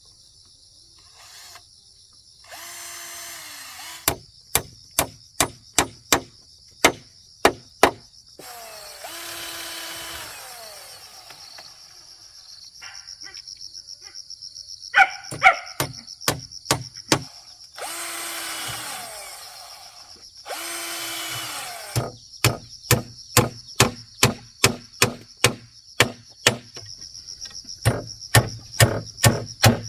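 Hammer blows on wood in quick runs of about two a second, alternating with several short runs of a power drill that winds down in pitch as each run stops. A steady high-pitched hiss lies underneath throughout.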